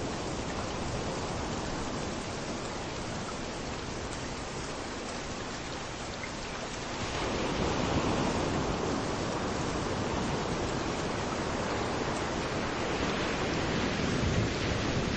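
Steady rain falling, with waves washing onto a beach; about halfway through the surf swells up louder and stays up.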